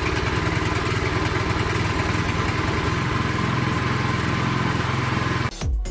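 Craftsman snowblower's small gas engine running at a steady speed after its no-start repair. It cuts off abruptly near the end and music starts.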